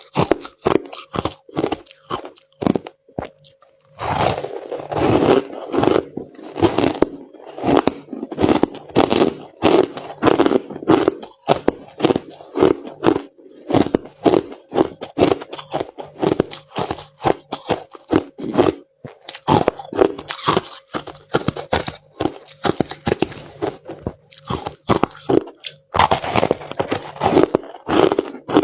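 A person chewing mouthfuls of white crushed ice: a long run of crisp, irregular crunches, broken by short pauses about three seconds in and again near the middle.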